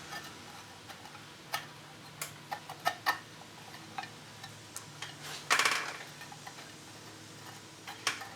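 Light metal clicks and taps of engine parts and bolts being handled while a timing chain cover is fitted to an LT1 engine block, with a short rattle about five and a half seconds in.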